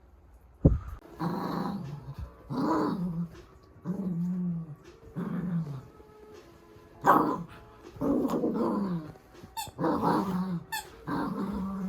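Small dog growling in a string of short grumbling calls, about one a second, each falling in pitch; a sharp thump comes just before the first.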